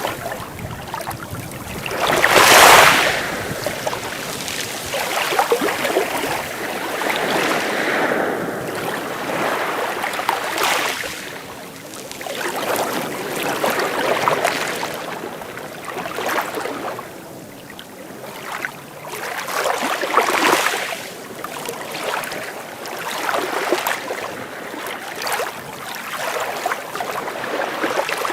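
Sea waves breaking and washing in, the surf hiss swelling and falling back about every three seconds; the loudest surge comes about three seconds in.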